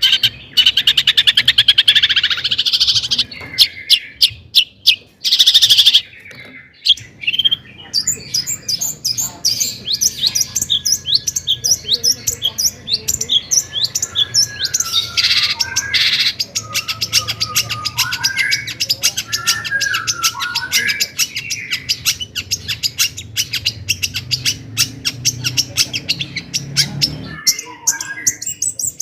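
Long-tailed shrike (cendet) singing a fast, varied song: rapid chattering trills and harsh bursts at first, then long runs of quick repeated high notes with wavering warbled phrases in the middle. A low steady hum runs underneath and stops shortly before the end.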